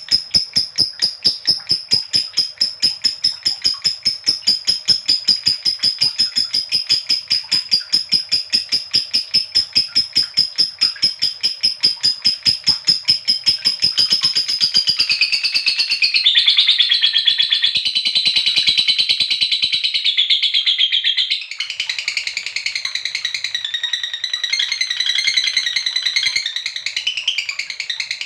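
Lovebird giving its long 'ngekek' chatter: a rapid, evenly spaced run of shrill, high notes that about halfway through turns into a denser, lower, jumbled chatter, broken briefly near the end.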